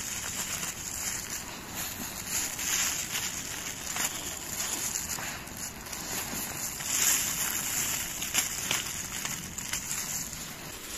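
Irregular rustling and crackling of forest-floor litter and moss being disturbed, with a steady hiss underneath.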